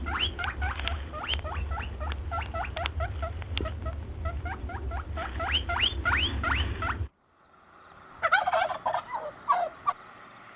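Many short, rising squeaks from small animals, several a second, over a low rumble, cutting off about seven seconds in. After a cut, a turkey gobbles in a quick burst near the end.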